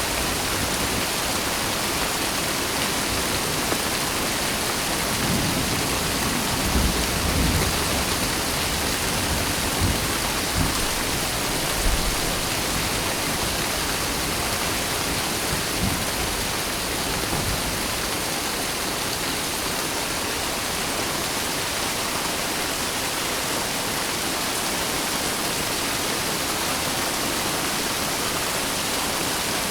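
Steady rain falling, with a few low rumbles of distant thunder between about five and eighteen seconds in.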